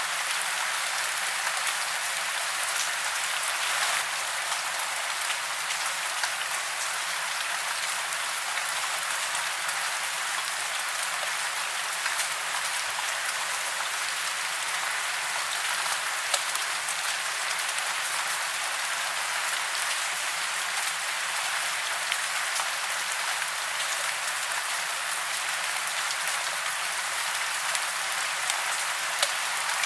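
Steady rain falling, a dense hiss with scattered individual drops ticking.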